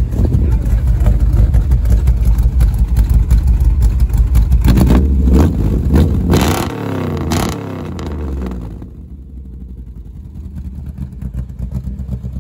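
1955 Chevrolet Bel Air's dual-quad V8 running at the exhaust, a loud low rumble at idle, revved up and back down about halfway through, then settling to a quieter idle near the end.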